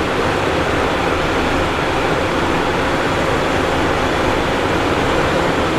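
Steady cockpit noise of a Cessna Citation Encore twin-turbofan business jet in flight: an even rushing of airflow and engine hum, with a faint steady tone.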